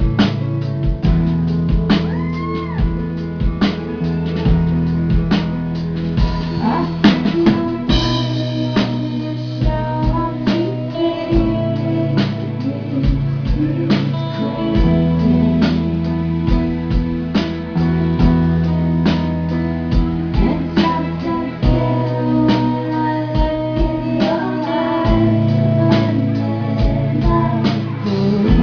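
A live band playing a song: a steady drum beat, sustained bass notes that change every few seconds, and guitar, with a sung vocal.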